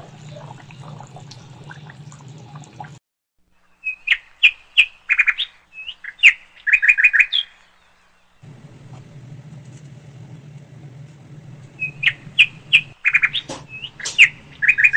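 A bird chirping in phrases of short high chirps and quick trills, with a steady low hum underneath. The hum drops out for a few seconds in the middle.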